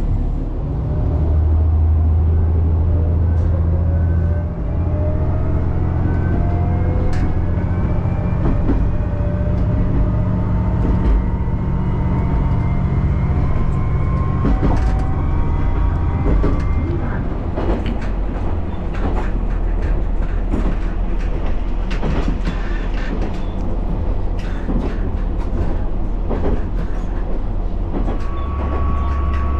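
Diesel railcar on the Nagaragawa Railway pulling away: its engine and transmission whine rise in pitch as it picks up speed over the first half. It then runs on with the wheels clicking over rail joints.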